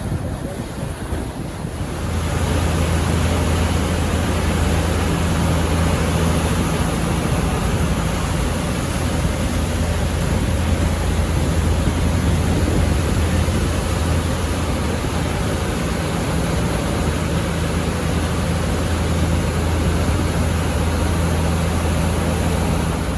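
Steady low drone of a boat's engine under a rushing wash of wind on the microphone and moving water; the engine hum firms up about two seconds in.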